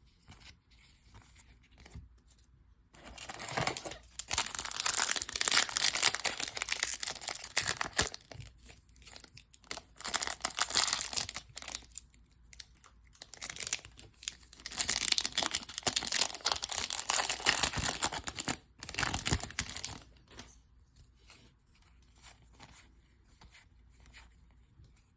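Trading-card pack wrappers being torn open and crinkled in hand, in long crackly stretches from about three seconds in until about twenty seconds in, then quiet.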